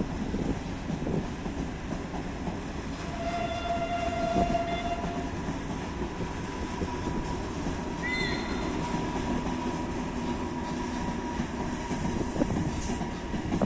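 Freight train rolling in, its wagons rumbling steadily. A high tone sounds for about two seconds some three seconds in, and a thin steady whine runs through the second half.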